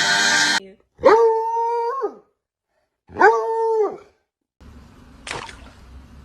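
A dog howling: two long howls of about a second each, each sliding up, holding one pitch and dropping away at the end. A brief sharp sound follows over faint background noise.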